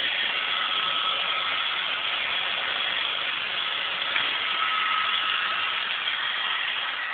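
iRobot Roomba 560 robot vacuum running, a steady whir of its vacuum motor and brushes with a faint steady whine through it. One short click about four seconds in.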